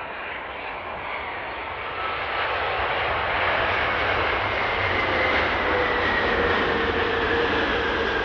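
Large jet airliner on approach to land, its engines growing louder as it nears, with a jet whine that drifts slowly lower in pitch over a rushing roar.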